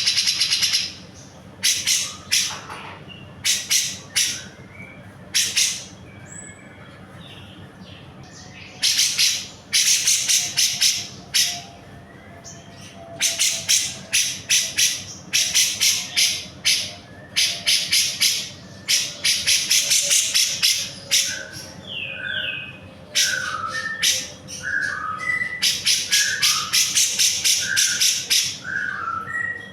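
Cucak jenggot (grey-cheeked bulbul) calling vigorously: runs of loud, harsh, rapid chattering notes in repeated bursts, with short whistled notes mixed in during the second half.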